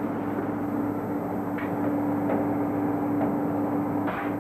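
A steady mechanical hum holding one low tone, with a few light knocks and clatters over it.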